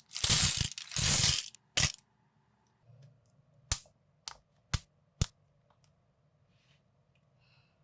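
Plastic building bricks rattling for about a second and a half, then four sharp separate clicks over about a second and a half as pieces are pressed and snapped together.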